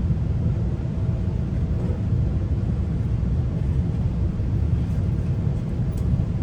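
GO Transit commuter train running between stations, heard from inside a passenger coach: a steady low rumble of the wheels on the track.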